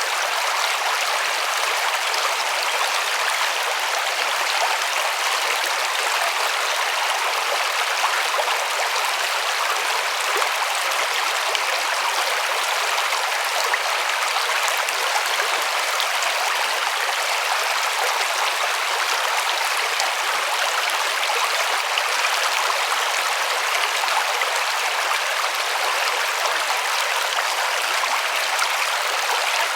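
River water rushing and splashing over stones in a steady, unbroken hiss.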